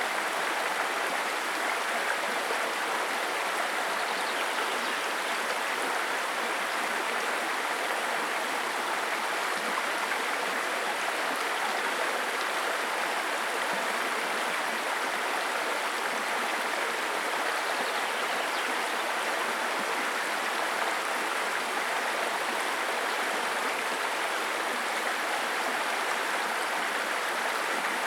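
Babbling brook: shallow stream water running and burbling over stones, steady and unbroken.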